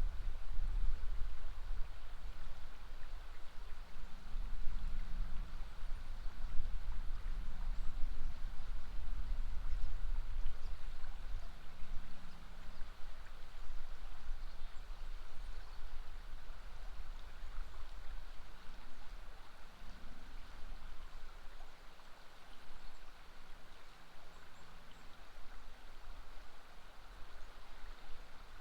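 River water flowing in a steady rush, with a low rumble underneath that is heavier in the first half and eases toward the end.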